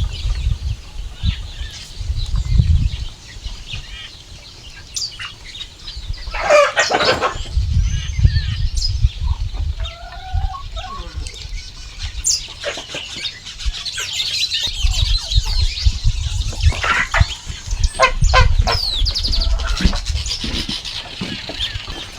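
Chickens clucking and calling, with other birds chirping, over an uneven low rumble.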